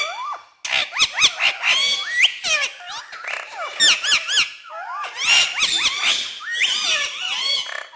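Pet talking parrot chattering: a rapid run of squawks, clicks and quick rising and falling whistles, with a brief pause about half a second in.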